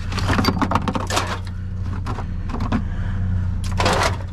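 Pieces of scrap metal clattering and knocking as they are tossed into sorting bins, with a longer rattling clatter near the end, over a steady low hum.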